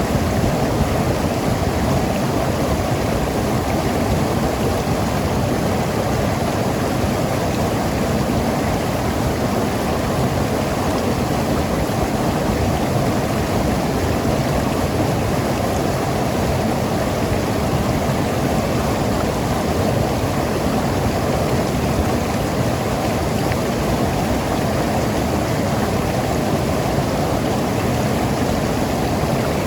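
Mountain river rushing and gurgling over rocks, a steady unbroken wash of water.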